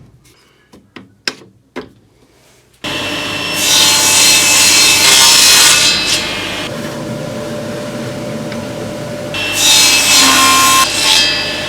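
A few faint knocks, then about three seconds in a power saw starts running and cuts through thin plywood. It has a steady motor hum, and the cutting noise swells loud twice while the blade is in the wood.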